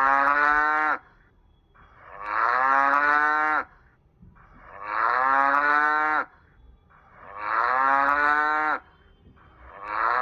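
A cow mooing over and over, long drawn-out calls of about a second and a half each, about one every two and a half seconds, each sliding slightly down in pitch; the last one cuts off abruptly.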